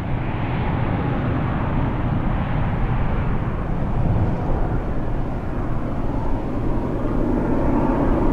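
Jet engines of a Boeing 767-300 airliner, a steady rumble that grows gradually louder.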